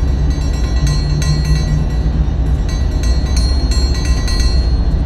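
Freight train on the move, heard from aboard: a steady low rumble from the locomotive and wheels on the track, with scattered sharp clicks and knocks.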